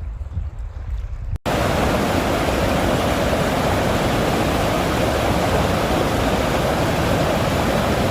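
Steady loud rush of river water, the Santiam River running fast over rapids or a fall. It cuts in suddenly about a second and a half in, replacing a low wind rumble on the microphone.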